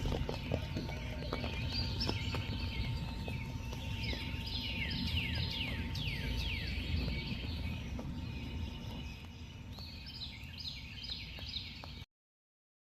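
A bird singing in series of quick, high, downward-sweeping notes, with another run of notes near the end, over a steady low rumble of outdoor noise. The sound cuts off suddenly near the end.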